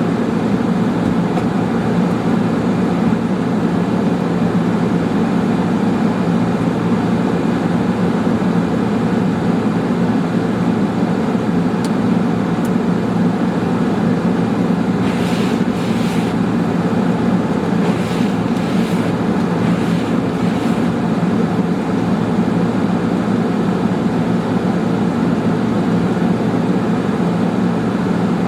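Steady road and engine drone inside a moving car, with a few faint soft ticks a little past halfway.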